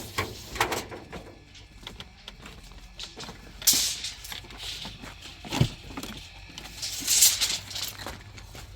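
Irregular knocks and clatter of building work, with two brief scraping bursts, about four and seven seconds in, and a dull thud between them.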